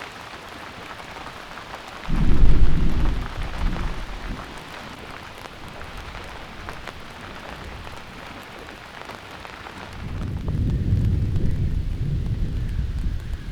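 Heavy rain falling steadily, with two deep rumbles of thunder: a sudden, loud one about two seconds in that fades over a couple of seconds, and a longer one that builds near the end.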